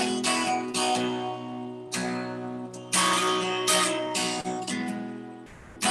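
Acoustic guitar strumming the introduction to a song: chords struck in an uneven rhythm, each ringing and fading before the next.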